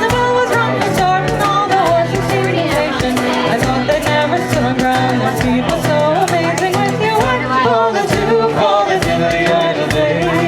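Irish folk music played on acoustic instruments: a wavering melody line over held low notes, with a steady, evenly struck beat.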